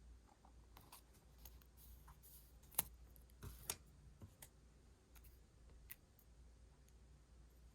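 Quiet stationery and paper handling: soft paper rustles and scattered small clicks, with two sharper clicks, one just before three seconds in and one just before four.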